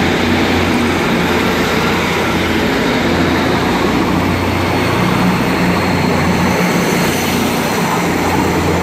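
Diesel multiple unit's underfloor diesel engine running steadily close by, a loud even low drone with a broad rushing haze over it.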